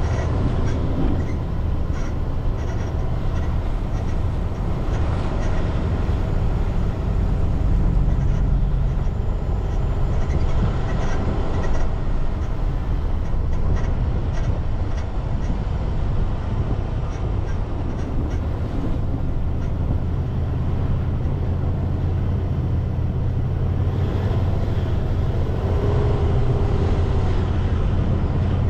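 A car driving along a road: steady low rumble of engine and tyres.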